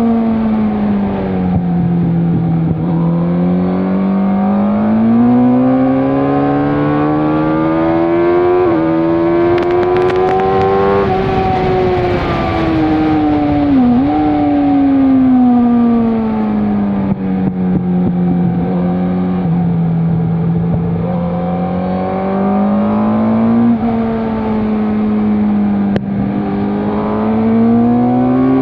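Suzuki GSX-R sportbike's inline-four engine on track, its pitch falling under braking and rising again under hard acceleration several times, with brief dips at gear changes. Wind rush swells where the revs peak.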